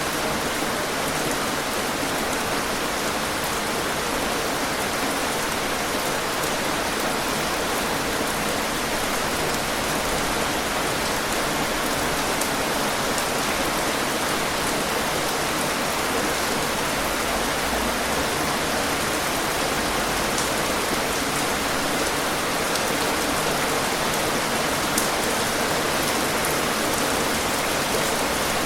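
Steady, dense rainfall, a continuous hiss of rain on surfaces with a few sharper individual drop ticks.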